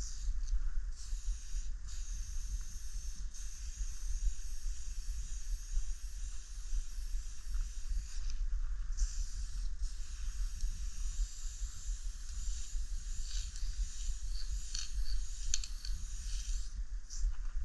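Aerosol spray paint can spraying in long hisses, stopping briefly now and then between passes, over a low steady rumble.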